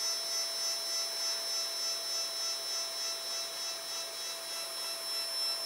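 Protomaker 3D printer's Z-axis stepper motors running, a steady whine of several high tones as they turn the threaded rods, pulsing regularly about three times a second.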